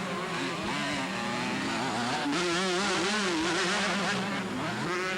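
Several two-stroke motocross bikes racing, their engine notes rising and falling as the riders work the throttle and shift gears.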